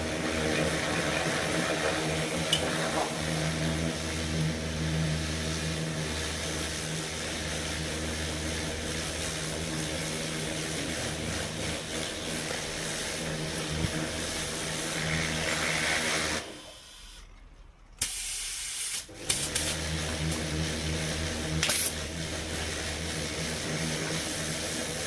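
A small machine running with a steady pitched hum and some hiss. It stops for about two seconds a little past halfway, then runs again, with a few clicks and one sharp knock.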